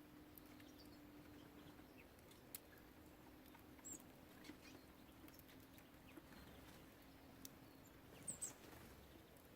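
Faint scattered taps and scratches of small birds pecking and hopping at a bird feeder, with a couple of brief high chirps, the loudest pair near the end.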